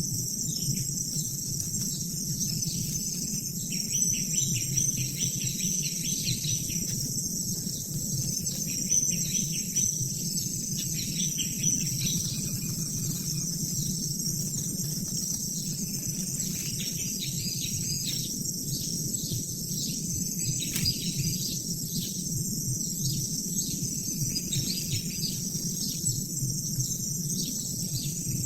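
A steady chorus of insects, such as crickets, trilling continuously at a high pitch, with scattered short chirps and a low background rumble.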